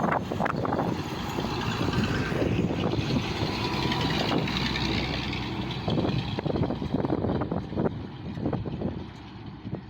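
A truck's engine running, a steady low rumble with irregular knocks, easing off briefly about nine seconds in.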